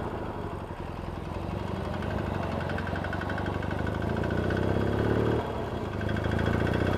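Yamaha XS650 air-cooled parallel-twin engine running on the road, the sound building over the first few seconds and easing briefly about five seconds in, with a tapping from the engine. The rider takes the tapping for a worn little end on the crank; the owner also suspects worn rockers, rocker shafts or pitted tappets.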